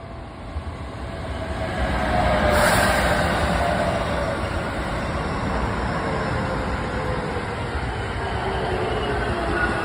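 Keisei 3800 series electric train running close by. Its noise builds over the first two or three seconds and then holds steady, with whining tones that slowly fall in pitch.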